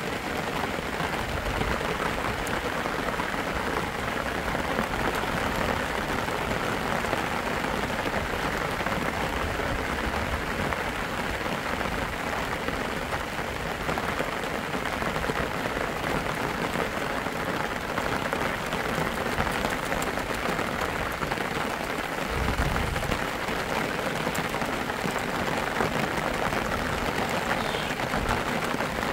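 Steady rain falling, an even unbroken noise that stays at the same level throughout.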